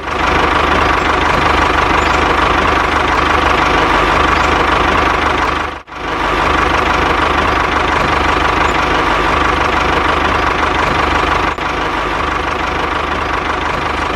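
A small motor of a DIY mini tractor running steadily at an even speed. It cuts out sharply for a moment about six seconds in, then carries on unchanged.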